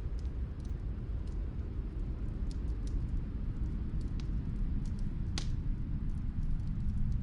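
Ambience of snowstorm wind, a steady low rumble, with sparse soft crackles of a wood fire in another room. One crackle, about five seconds in, is louder than the rest.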